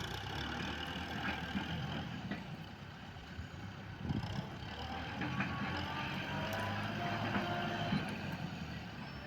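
Kubota M6040S tractor's diesel engine running steadily under load.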